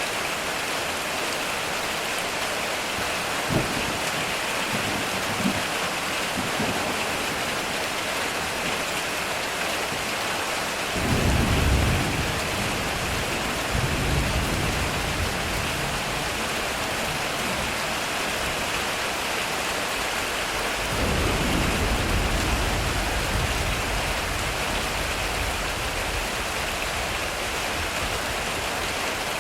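Heavy rain drumming steadily on a metal roof, with thunder: a couple of sharp cracks near the start, a loud low rumble about a third of the way in, and another long rumble rolling on from about two-thirds of the way through.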